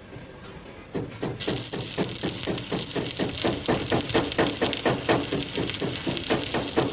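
Rapid, steady hammering on metal, about five ringing blows a second.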